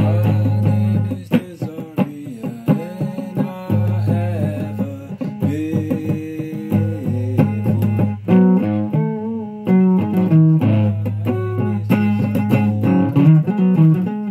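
Electric guitar played through a Fuzz Face fuzz pedal on a drained battery: picked notes with string bends over repeated sustained low notes.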